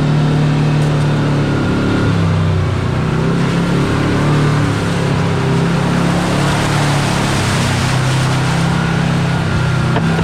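Kawasaki Teryx KRX4 1000 side-by-side's parallel-twin engine running under way on a trail, heard on board. Its note drops about two seconds in and picks up again a couple of seconds later, over a steady rushing noise.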